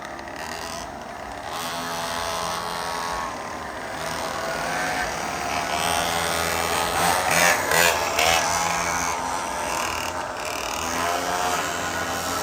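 Small 49cc mini bike engines running and revving, their pitch rising and falling as the bikes race, with more than one engine heard at once.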